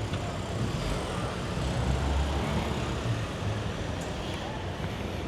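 Street traffic: a steady low rumble of road vehicles that swells about two seconds in, as of a car or truck passing.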